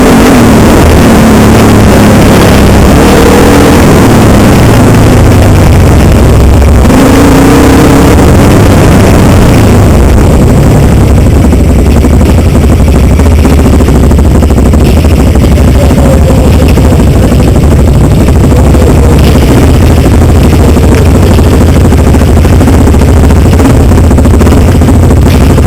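Dirt bike engine running, its pitch rising and falling with the throttle through the first several seconds, then holding steadier. The recording is very loud, near the microphone's limit.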